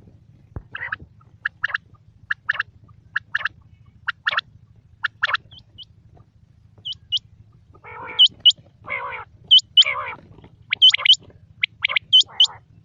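Quail calling: a string of short double notes, roughly one a second, then from about eight seconds in harsher rasping calls mixed with high, sharply hooked notes. A faint low hum runs underneath.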